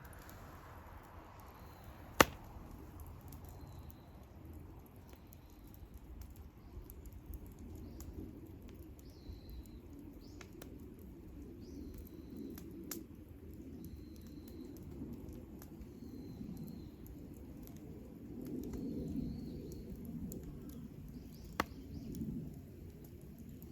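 Wood campfire burning: a low flickering rush of the flames with scattered sharp crackles and pops, one loud pop about two seconds in and another near the end. Short high bird chirps repeat faintly in the background.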